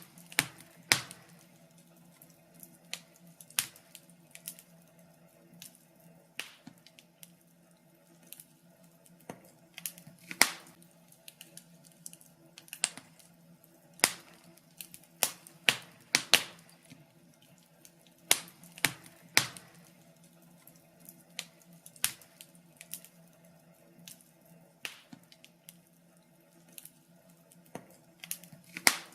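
Wood fire crackling: irregular sharp pops and snaps, a few loud ones among many small ticks.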